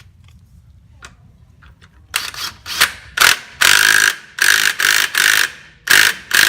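An impact driver runs in about six short bursts from about two seconds in, running down the Kawasaki Mule's clutch-side cover bolts.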